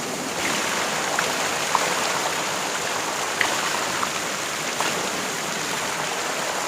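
Steady rush of water from a small waterfall and its stream, with a few brief high plinks over it.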